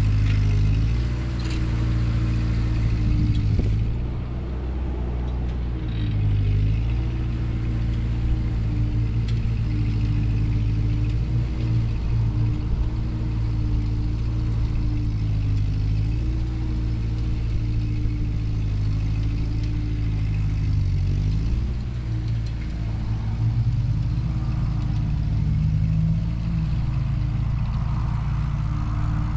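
Ford N-series tractor's four-cylinder flathead engine running steadily while pulling a Ferguson cultivator through the soil. Its pitch sags briefly a few times as the load comes on, about two, six and twenty-one seconds in.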